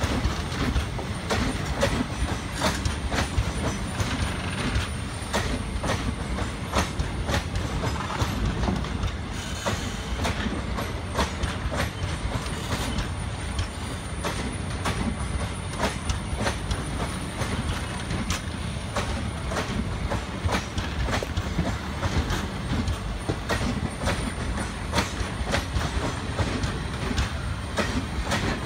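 Passenger train coaches rolling past at close range, their wheels knocking over rail joints in a steady stream of clicks and clacks.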